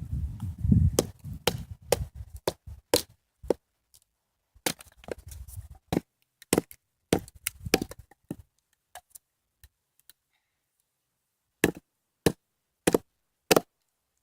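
Damp wood being split with a knife struck on its spine by a wooden baton: a run of sharp wooden knocks, quick and irregular at first, then slower, about one every half-second near the end. The wood is slow to split.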